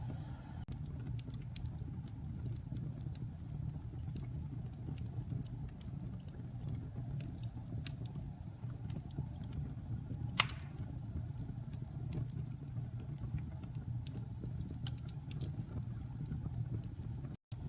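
Wood fire crackling in a fireplace: a steady low rumble under scattered sharp crackles, with one loud pop about ten seconds in. The sound cuts out briefly near the end.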